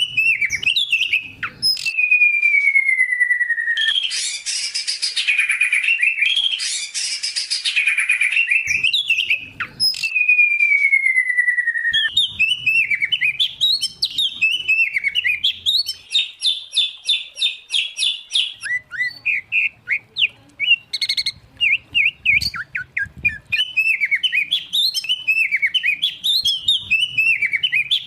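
Mixed song of white-rumped shama, oriental magpie-robin and greater green leafbird, singing continuously: long falling whistles, harsh buzzy passages, a fast trill of repeated notes and quick varied chirping phrases.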